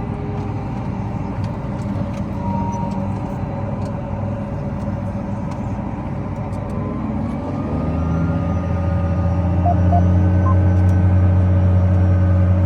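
Case 385 tractor's diesel engine running steadily, then about eight seconds in revving up to a higher, louder note that it holds.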